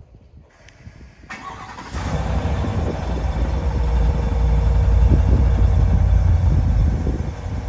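Muffler-deleted 6.2-litre V8 of a 2021 Chevy Silverado starting up: a short crank about a second in, then it catches at about two seconds with a loud, deep exhaust rumble that swells and eases slightly toward idle near the end.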